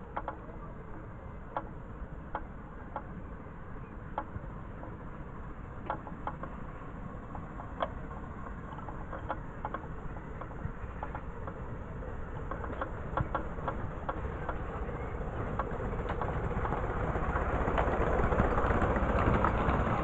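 Miniature railway train running on its track, wheels clicking over the rail joints at uneven intervals, with the running noise growing louder through the second half.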